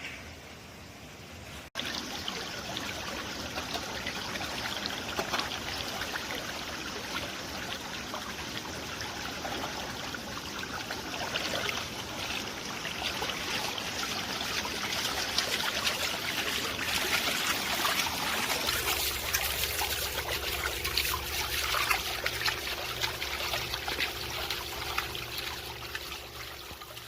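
Mountain stream water flowing over rocks, a steady rushing trickle that turns abruptly louder under two seconds in. A low steady hum joins in for the last third.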